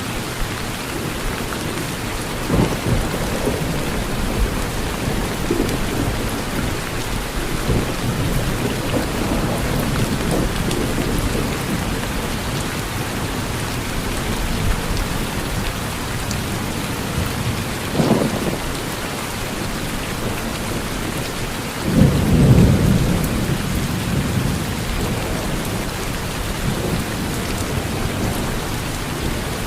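Steady rain falling on a porch, with thunder rumbling several times. The loudest and longest rumble comes about three-quarters of the way through, with shorter ones near the start and a little past halfway.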